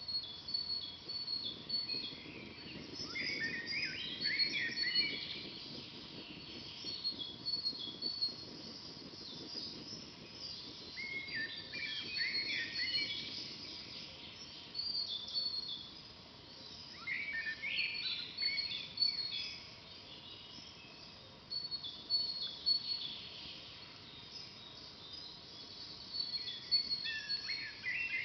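Forest birds singing: one bird repeats a short warbled song phrase about every seven or eight seconds, over a steady run of short high chirps from others, with a soft low rustling hiss beneath.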